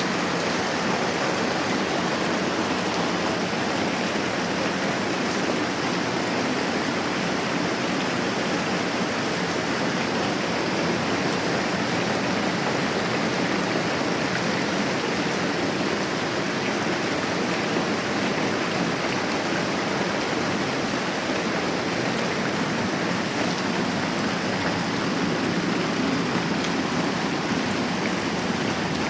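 Moderate rain falling steadily, an even, unbroken hiss.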